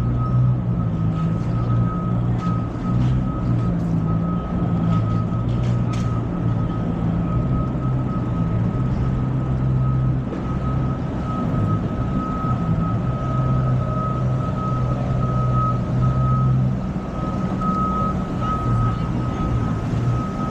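Busy city street: a large vehicle's engine running with a low, steady hum, under a continuous high tone that wavers slightly. A few short sharp clicks sound in the first several seconds.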